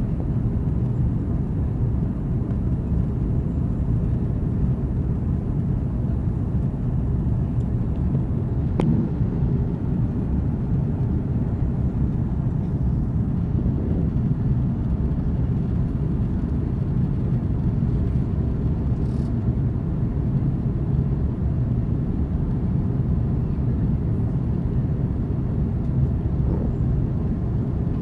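Steady low rumble of an Airbus A330-300 heard from inside the passenger cabin: its Rolls-Royce Trent 700 engines and rushing air during the climb after takeoff. A single faint click comes about nine seconds in.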